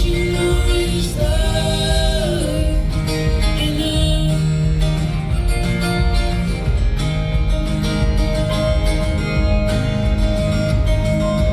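Folk band playing live: acoustic guitar and a steady beat carry an instrumental passage of the song, with held and gliding melody lines but no sung words.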